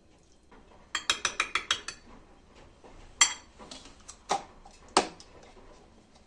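Kitchen utensils clinking against dishes: a quick run of about seven taps, then three single louder knocks.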